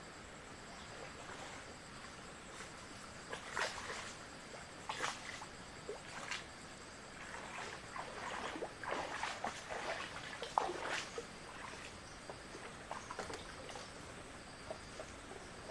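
Steady high-pitched insect chirring, likely crickets, with scattered short rustles and clicks that come thickest in the middle of the stretch.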